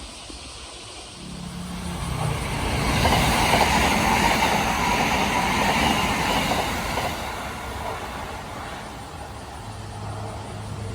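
Kintetsu Osaka Line electric train passing a level crossing: its running noise builds over the first couple of seconds, is loudest a few seconds in, then fades away. A low steady hum starts near the end.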